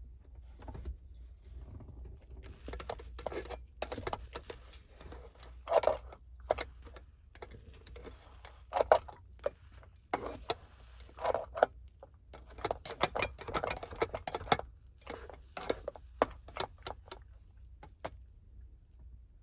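Dishes, utensils and packaging handled at close range: an irregular run of clinks, taps and rustles over a low steady hum.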